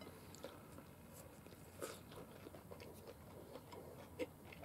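Faint crunching and chewing of deep-fried small horse mackerel karaage, eaten whole in a flour coating: scattered crisp little crackles, a couple slightly louder.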